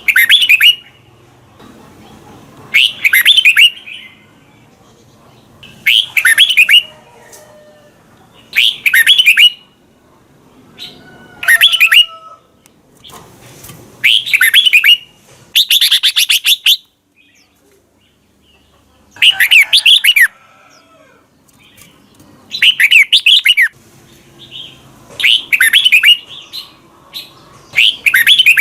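Red-whiskered bulbul singing: about ten short, quick warbled phrases, each about a second long, with pauses of one to three seconds between them.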